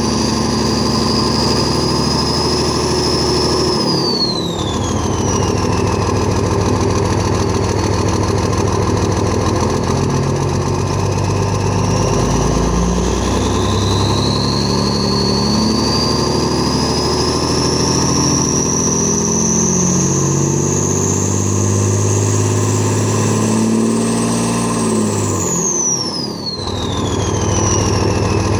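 Turbo whistle from an HE351CW turbocharger on a P-pumped 24-valve Cummins diesel, over the engine running. The high whistle holds, drops away about four seconds in as the throttle comes off, then climbs slowly and steadily for about twelve seconds before falling off sharply again near the end.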